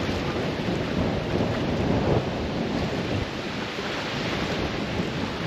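Steady wind noise buffeting the microphone: a rushing, rumbling noise that rises and falls slightly with the gusts.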